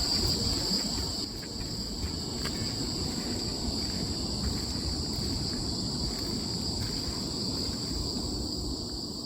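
Crickets chirring in an unbroken, steady high-pitched trill, over a low rumbling background noise.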